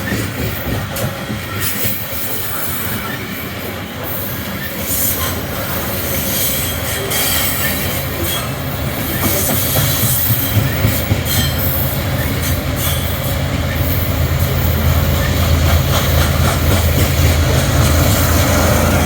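Loaded coal cars of a freight train rolling past, with wheels clicking over the rail joints and squealing on the rails. A low rumble builds over the last few seconds.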